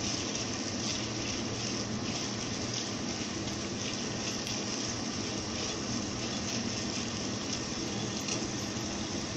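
Sliced carrots and chopped onion sizzling steadily in hot oil in a pot.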